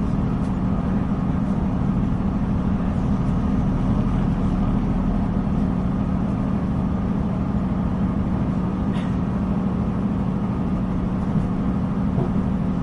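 Diesel multiple-unit train running steadily between stations, heard from inside the carriage: a constant low hum of engine and wheels on rail, with a faint click about nine seconds in.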